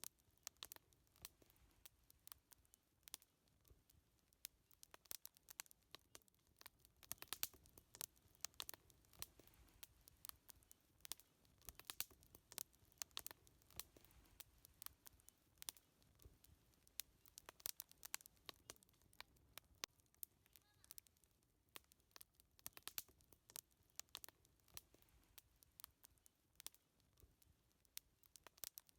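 Wood fire crackling: a quiet, irregular stream of small snaps and pops, several each second.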